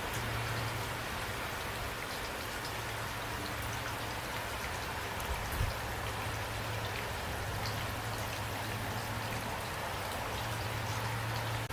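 Steady rain falling, with individual drops ticking over an even hiss and a steady low hum beneath. One brief low thud comes about halfway through.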